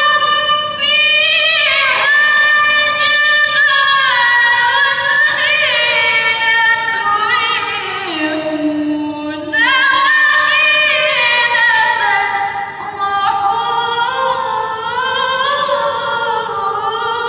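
A woman reciting the Qur'an in melodic tilawah style: a long, ornamented phrase of held notes that steps down in pitch, a short break for breath about nine and a half seconds in, then a new phrase starting high and winding down again.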